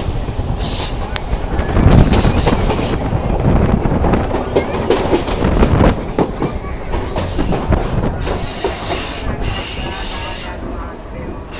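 Passenger train running along the track, a loud, continuous rail noise that swells about two seconds in and eases off toward the end.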